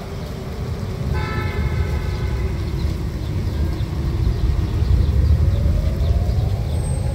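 Outdoor tornado warning siren slowly winding up, its single tone rising in pitch over a few seconds, over a steady low rumble. A short horn-like toot sounds about a second in.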